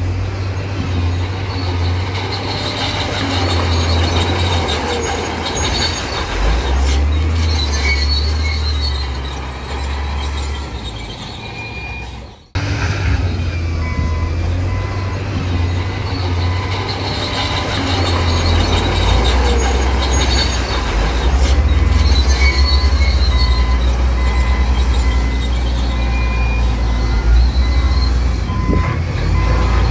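A bulldozer's diesel engine runs under load, with high-pitched squeaks from its steel crawler tracks. The sound drops out abruptly about twelve seconds in and comes straight back.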